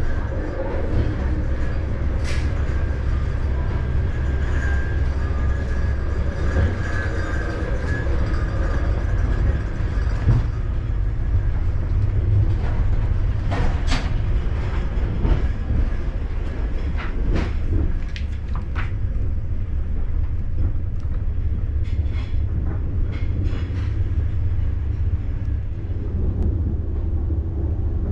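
Running noise heard from inside an ICE 4 high-speed train: a steady low rumble with scattered short clicks and knocks.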